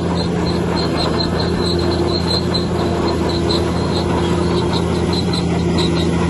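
Heavy diesel engine of a bulldozer running steadily, with a constant low drone and a quick, uneven string of short high-pitched squeaks over it.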